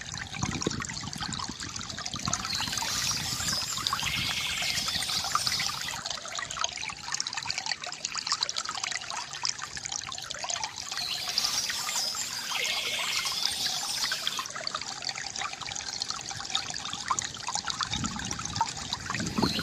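Water from a bamboo fountain spout trickling and splashing steadily into a basin, gurgling with many small splashes. Birds chirp over it in two stretches, a few seconds each.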